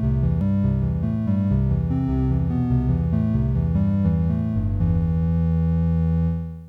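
Behringer JT-4000M synthesizer playing a factory preset: a fast, bass-heavy run of pitched notes changing about twice a second, settling on one held chord about five seconds in that fades out just before the end.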